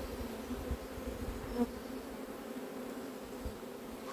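Honeybees buzzing steadily in a continuous hum around an open hive, with one short knock about a second and a half in.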